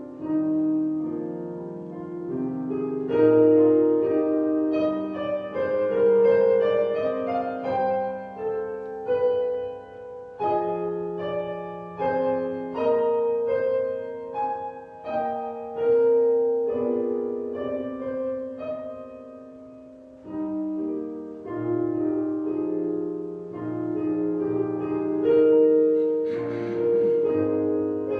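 Solo piano playing a slow, gentle hymn-like piece, with sustained chords that change every second or two.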